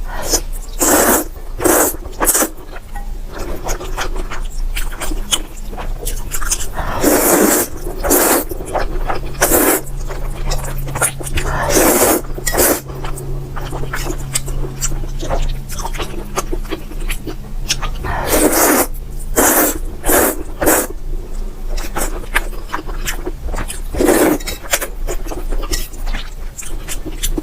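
Close-miked eating of spicy fire noodles: noodles slurped in and chewed, with irregular wet mouth clicks and smacks and a few longer slurps of about a second each.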